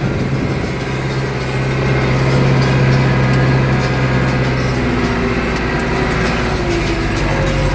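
New Holland tractor's diesel engine running steadily under load while pulling a plough, with a low drone that swells a little about two to three seconds in.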